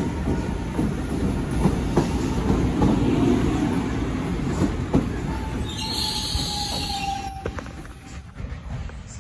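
Electric commuter train running past along the platform: a steady rumble with wheels clacking over rail joints. A thin wheel squeal and a short hiss come near the middle, then the sound dies down as the last cars go by.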